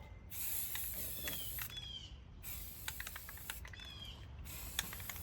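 A bird chirping a few short, falling calls, with scattered light clicks and taps.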